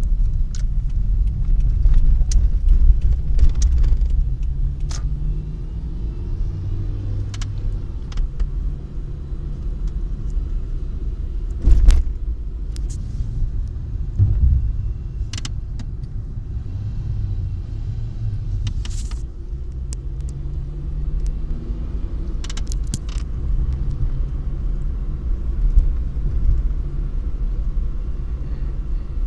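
Car running with a low rumble and engine tone that rises and falls, overlaid by scattered sharp clicks and knocks, one louder knock about twelve seconds in.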